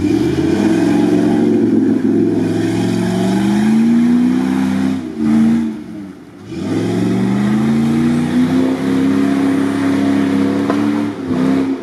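Jeep Grand Cherokee's engine revving hard under load as the SUV pulls through deep mud, its pitch climbing steadily. The level drops briefly about six seconds in, then the engine revs up again and holds high.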